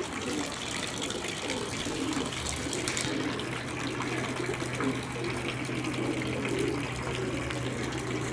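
Running water, with a steady low hum that starts about two seconds in.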